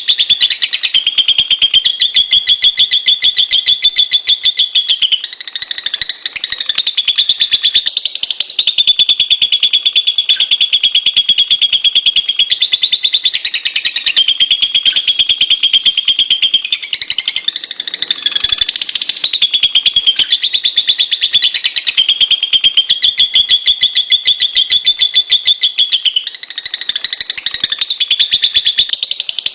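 Lovebird chattering in a rapid, high-pitched trill that runs almost unbroken, its phrase shifting every few seconds.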